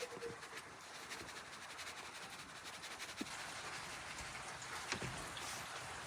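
Rain falling, a steady hiss of many small drops with a few louder single drips about three and five seconds in.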